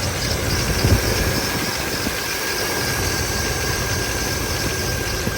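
1989 GMC Sierra engine idling, with a rattle from the accessory drive that the owner puts down to a loose pulley. A short thump about a second in, and a steady high tone over the engine.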